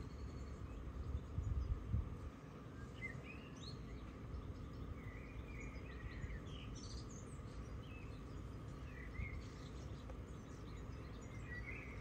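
Birds chirping here and there, short high calls, over a low, steady background hum.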